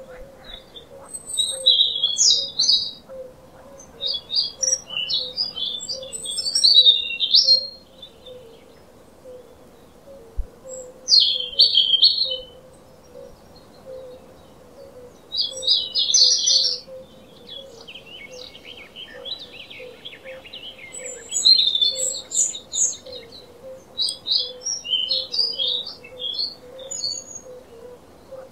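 Songbirds singing: short, quick twittering phrases come every few seconds with brief pauses between them. A faint steady hum runs underneath.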